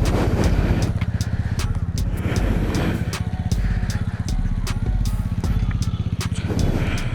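Motorcycle engine running at a steady speed, its pitch holding level throughout.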